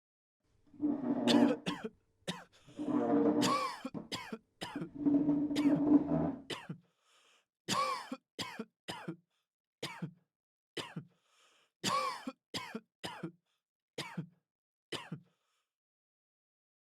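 A person clearing their throat in three drawn-out rasps, then coughing in about a dozen short, sharp coughs in loose bunches.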